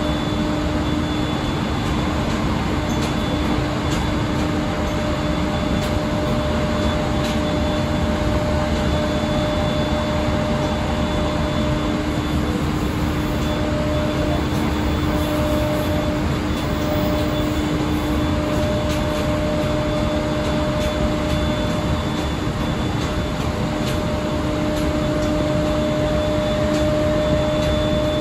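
JR East 701-series electric multiple unit running at speed, heard from inside the carriage: steady running noise of wheels on rail with a steady hum.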